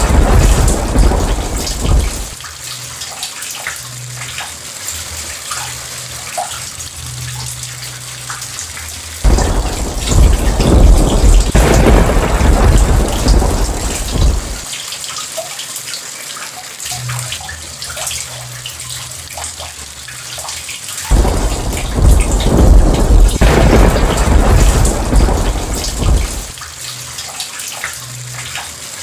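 Steady heavy rain with rolls of thunder. One rumble dies away about two seconds in, another breaks in suddenly about nine seconds in and rolls for about five seconds, and a third comes about 21 seconds in. The thunder is the loudest sound, and the rain's patter carries on between the rolls.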